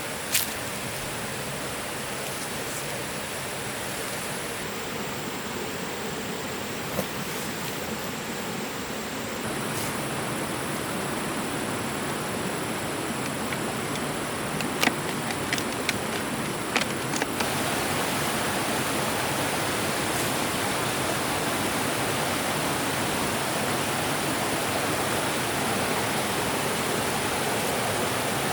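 Steady rushing noise with a few faint short clicks, stepping louder about ten seconds in and again near eighteen seconds.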